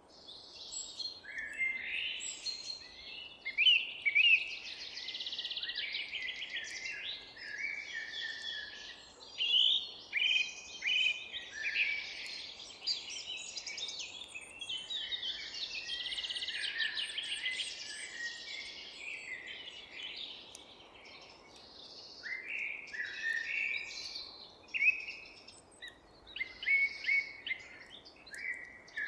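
Several songbirds singing and chirping at once in a forest, with rapid trills and short rising and falling notes overlapping, over a faint steady background hiss. The chorus thins out briefly a little past two-thirds of the way through, then picks up again.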